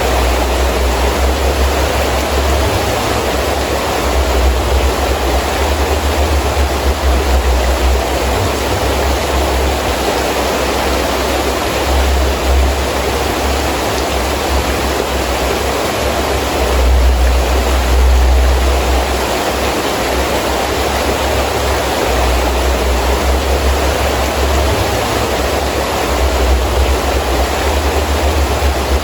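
Heavy rain falling steadily with wind, the wind rising and falling in gusts as a deep rumble, strongest a little past the middle.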